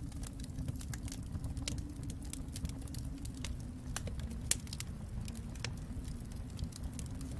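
Wood fire crackling in a fireplace: irregular sharp pops and snaps over a steady low rumble, with one louder pop about four and a half seconds in.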